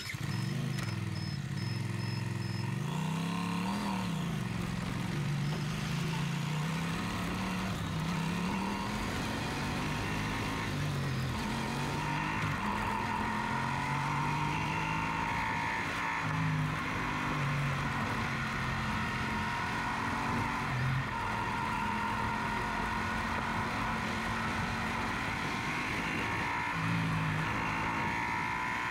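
Yamaha Super Ténéré's parallel-twin engine on the move, heard while riding. Its pitch rises and falls several times in the first few seconds, then holds steadier with small rises and dips over a steady rushing noise.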